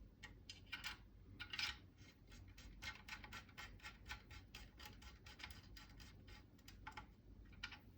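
Faint clicks and light scratches of small metal hardware and hand tools being handled during a rifle parts install, with a quick run of ticks in the middle.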